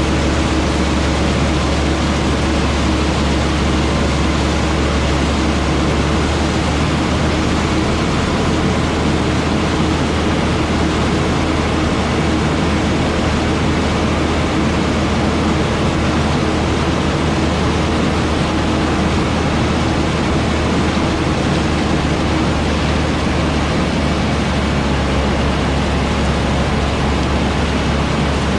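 Heavy diesel farm machinery running steadily at harvest: a constant low engine drone with an even mechanical hiss over it, and a faint hum that fades out about halfway through.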